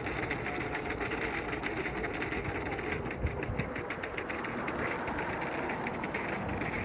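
D18B RC bait boat's electric propeller motors running steadily as the boat travels on the water.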